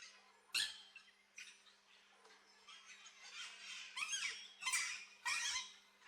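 Aviary birds calling: a string of short squeaky calls and squawks, several with quick up-and-down pitch glides, the loudest coming in a cluster about four to five and a half seconds in. A faint steady electrical hum lies underneath.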